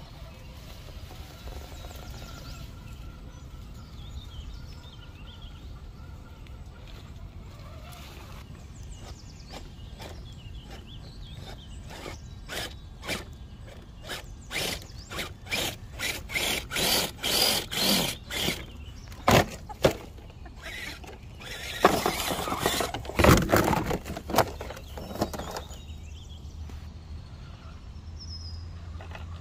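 A 1/10-scale Gmade G20SF RC rock crawler working over stones and dirt. Past the middle comes a dense run of sharp clacks, knocks and scrapes from its tyres and chassis on rock, and then it settles back to a low steady background.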